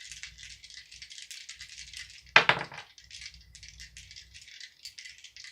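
Dice being shaken, a continuous fast clicking rattle. Partway through, about two and a half seconds in, there is one brief voiced sound.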